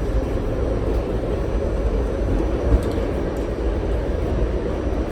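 R68 subway car in motion: a steady rumble of wheels on the rails with a low drone underneath, and a few faint clicks.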